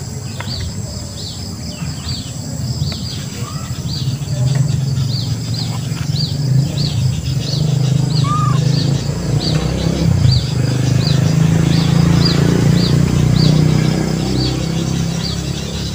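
Garden ambience with a bird chirping over and over, short high chirps about two a second. Under it runs a low hum that grows louder through the middle and eases near the end.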